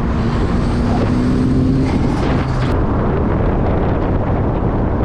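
Nissan S13's turbocharged SR20DET four-cylinder engine running as the car is driven, its pitch rising over the first two seconds and the sound changing a little after halfway through.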